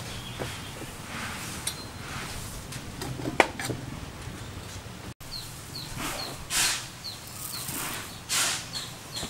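A small bird chirps repeatedly in short high notes, about twice a second, through the second half, over short scraping sounds from the inside of a stone mortar being scraped. Earlier there are a few light knocks, the sharpest about three seconds in.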